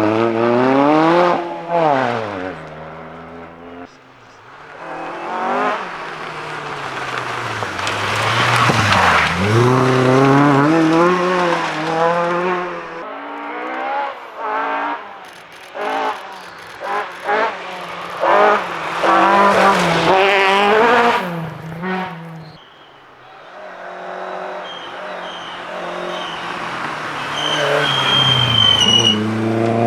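Rally cars at full throttle on a stage, engines revving up and falling away through gear changes as they come past. In the middle there is a run of short, sharp engine blips and cracks.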